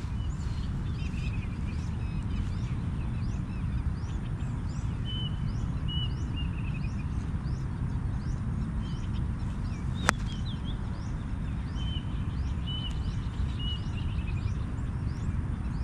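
Birds chirping and calling, with short repeated notes, over a steady low outdoor noise. A single sharp click about ten seconds in.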